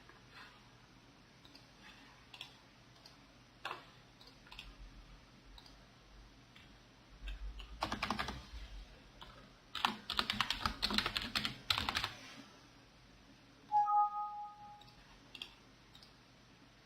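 Computer keyboard typing in two quick runs in the middle, with scattered single clicks before and after. A short electronic beep sounds near the end.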